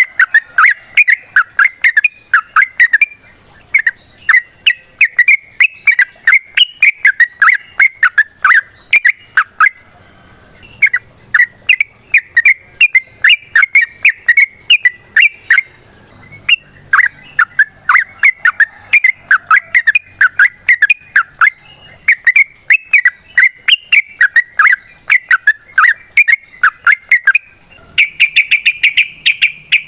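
Yellow-vented bulbul singing: long runs of rapid, bubbly chattering notes, several a second, in phrases of a few seconds with short pauses between them. Near the end comes a denser, buzzier burst.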